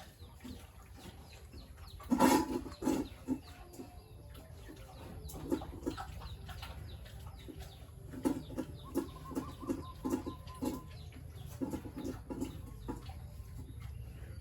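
Farm animals giving runs of short, low, repeated calls in three bursts, with light clicks and knocks in between.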